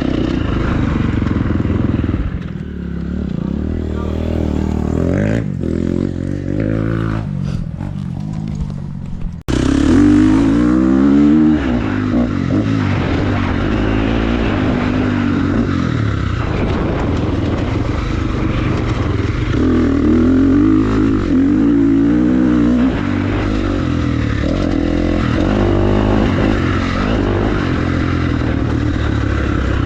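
Motorcycle engine running under load, its pitch rising and falling as it is revved up and eased off, with a brief break in the sound about nine seconds in.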